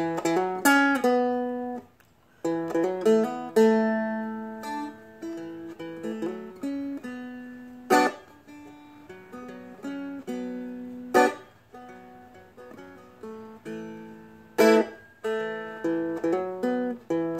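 Seagull Merlin fretted dulcimer fingerpicked, playing a slow melody line with ringing, decaying notes, broken by a few louder strummed chords. It stops briefly about two seconds in.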